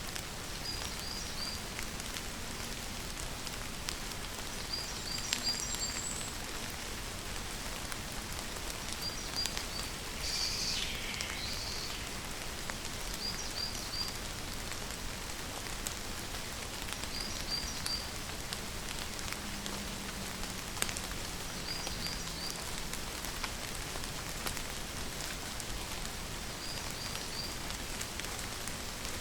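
Steady rainfall pattering without a break. A short high triple chirp repeats about every four seconds, and one louder call falls in pitch about ten seconds in.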